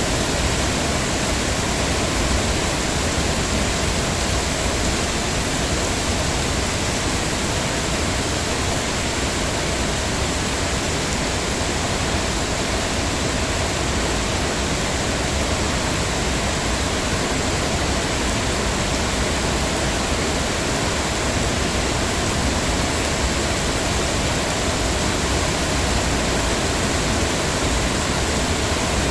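Heavy rain falling steadily: a dense, even hiss with no single drops or other events standing out.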